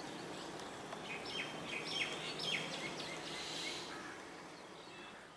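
A bird gives three quick calls about a second in, over a steady outdoor background noise that fades out near the end.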